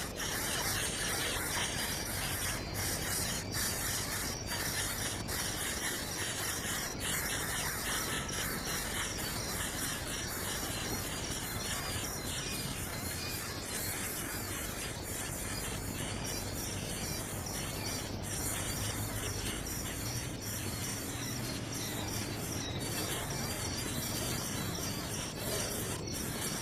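A steady insect-like chirring with fast pulses, over a constant hiss.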